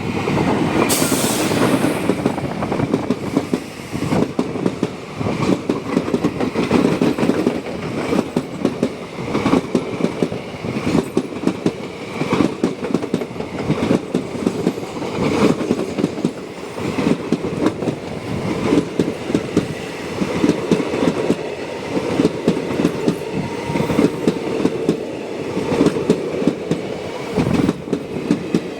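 A train running past at close range, its wheels clattering over rail joints in a quick, continuous series of knocks over a steady rumble.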